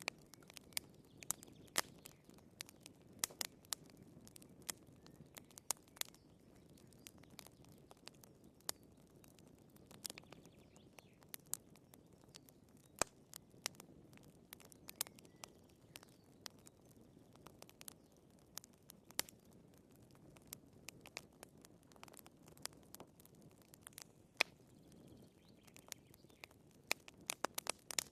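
Wood fire crackling: irregular sharp pops and snaps from the burning firewood, several a second in places, over a faint low hiss.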